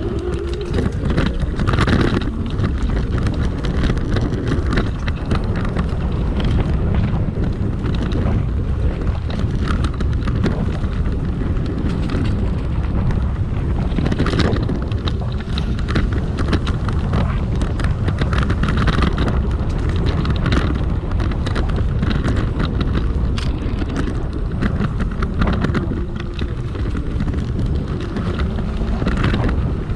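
Wind buffeting the microphone while riding a dual-motor electric scooter off-road, with frequent rattles and knocks from the scooter going over rough ground.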